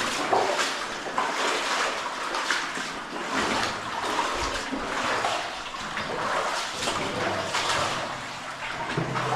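Footsteps splashing and sloshing through shallow cave stream water, uneven splashes about twice a second.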